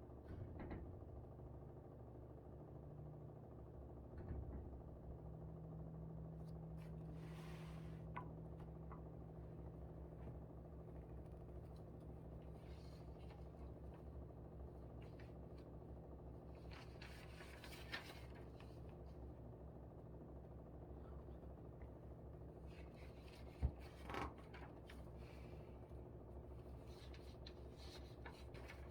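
Air conditioner running with a steady hum that strengthens a few seconds in. A few brief rustles and a sharp tap near the end.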